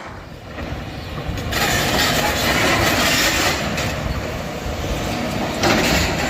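Heavy machinery running: a steady rumble with rattling clatter that changes abruptly about one and a half seconds in and again near the end.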